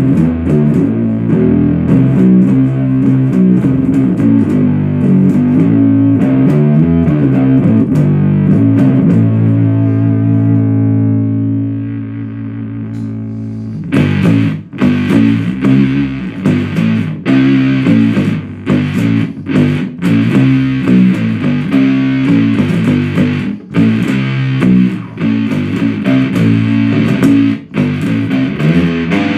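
Short-scale Gretsch electric bass played through a 77 Fuzz Blender, a Big Muff-style fuzz pedal, into an Orange Super Crush 100 amp: heavy, doomy fuzz riffing. About ten seconds in, a note is left ringing and dies away; a few seconds later the riff starts again with choppy stops.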